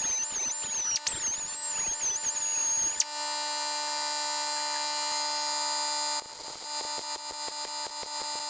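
Small power tool running: a high whine that wavers in pitch for about three seconds, then a steady whine, with a fast ticking rhythm from about six seconds in.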